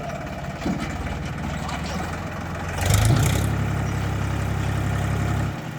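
Powertrac tractor's diesel engine running at idle, then revving up about three seconds in and holding the higher speed before dropping back near the end, as when the throttle is raised to work the hydraulic tipping of a soil-laden trailer.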